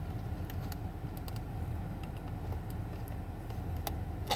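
1998 Toyota Camry idling steadily, heard from inside the cabin, with a few small plastic clicks and taps as a USB charger is pushed into the cigarette-lighter socket. The sharpest click comes near the end.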